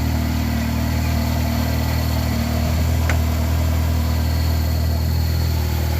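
Nissan Micra rally car engine idling steadily while its newly fitted power steering is bled. There is one sharp click about three seconds in.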